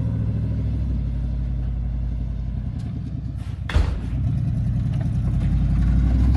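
An engine running steadily with a low hum. It eases a little before a sharp thud just under four seconds in, then runs slightly louder.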